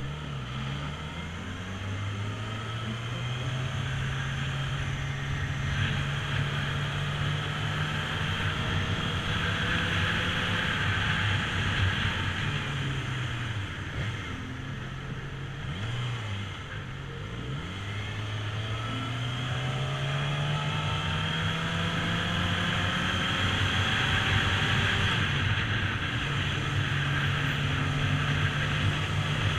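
Motorbike engine under way. Its pitch climbs as it accelerates, holds, then drops as it slows about halfway through, and climbs again as it picks up speed, over a steady rush of wind and road noise.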